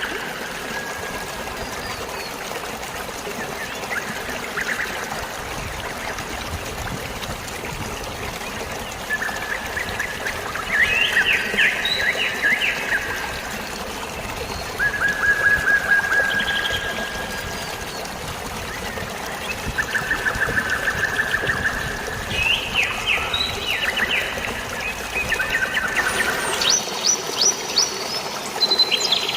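Steady trickling, flowing water with songbirds calling over it: a series of short, rapid trills and chirps that begin about ten seconds in and come every few seconds, growing higher and busier near the end.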